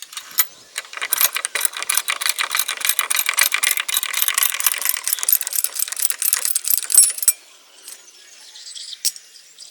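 Rapid, dense metallic clicking and rattling for about six seconds, which stops abruptly; a single sharp click follows near the end.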